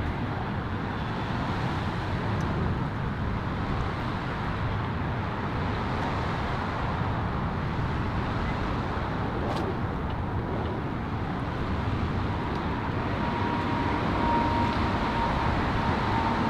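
Motor vehicle engine running steadily as a pickup truck backs a boat trailer down the ramp: a low, even rumble with a faint steady whine in the last few seconds.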